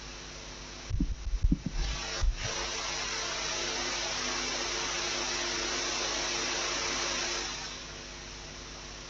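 A few low thumps, then a steady hiss of falling rain that holds for about five seconds and fades away near the end.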